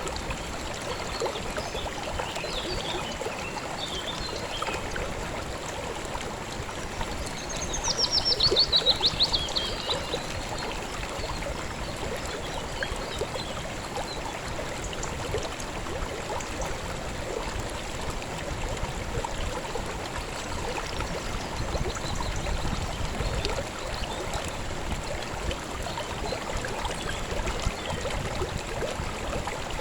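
River water flowing steadily. About eight seconds in, a bird sings a fast trill that falls in pitch over a couple of seconds, the loudest sound here, with a few faint chirps before it.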